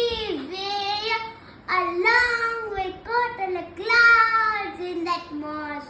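A young girl's voice singing the lines of a nature poem in a high-pitched tune, with notes held and gliding between short breaks.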